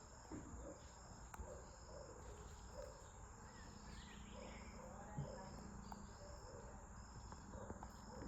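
Insects chirping faintly: a steady high drone with a pulsing chirp about once a second.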